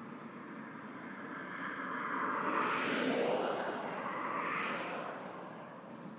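Riding noise onboard a 2025 Kawasaki Z900: a steady rush of engine, road and wind that swells to a loud rushing peak about three seconds in and fades away again.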